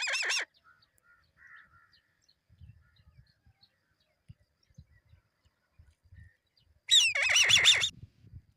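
Eagle chick squawking: a harsh, falling call at the very start, then a longer harsh call of about a second near the end, with only faint low rumbles in between.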